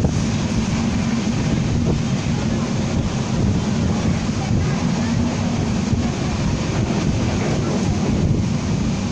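Steady rumble and rushing noise of a moving passenger train, with wind on the microphone and a low steady hum that stops about six seconds in.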